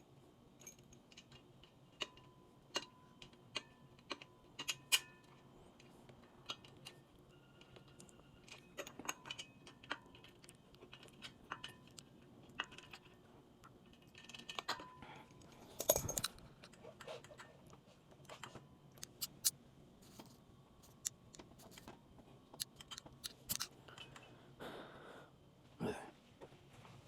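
Scattered small clicks, taps and light metallic knocks of tools and parts being handled during motorcycle work, some with a brief ring. The loudest knock comes about halfway through.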